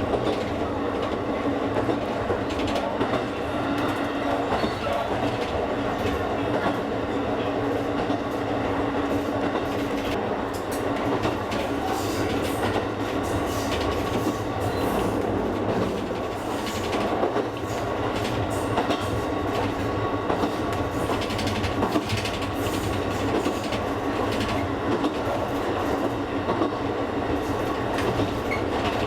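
Kakogawa Line local train running along the track, heard from on board: a steady rolling rumble with a constant hum and scattered clicks of the wheels over rail joints.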